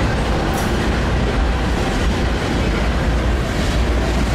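Freight train of covered hopper cars rolling past: a steady rumble of steel wheels on rail.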